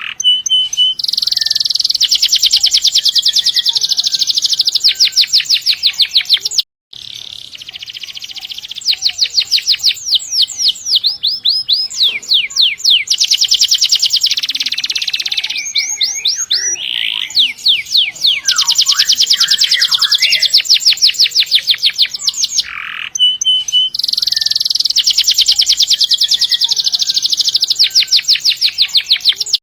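Canary singing loudly and without pause, long rolls of rapid repeated high notes running into one another, with a brief break about seven seconds in.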